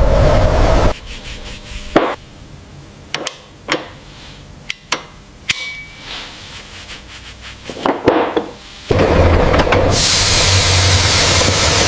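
Workshop noise. A loud hiss with a low hum cuts off about a second in, then scattered sharp taps and knocks of tools on metal follow, and a loud hiss with a low hum starts again about nine seconds in.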